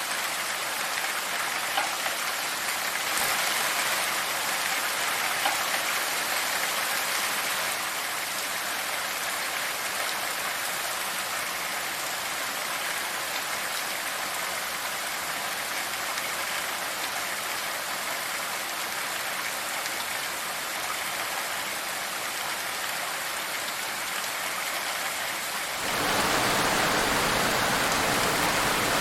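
Steady rain falling, a continuous hiss of drops with a few sharper drop ticks. About 26 seconds in it becomes suddenly louder and fuller.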